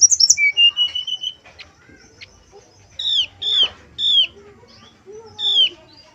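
Brown-chested jungle flycatcher singing: a quick burst of very high notes and a short steady whistle, then from about three seconds in four sharp down-slurred notes spaced a half to one second apart.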